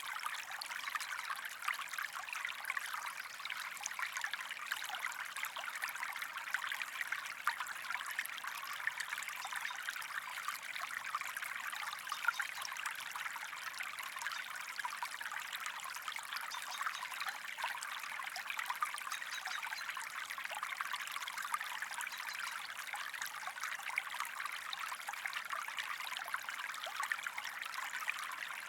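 Water of a small stream running and trickling steadily over stones, a continuous bubbling flow.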